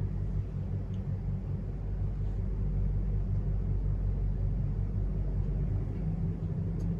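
Steady low rumble with a faint steady hum above it, unbroken and without speech.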